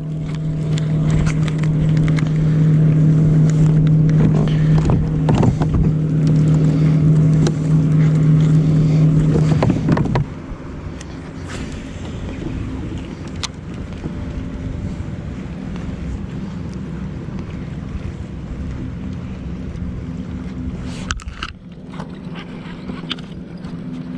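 Motorboat engine humming steadily, loud for the first ten seconds, then dropping off abruptly to a fainter hum that carries on. Scattered light clicks and knocks sound over it.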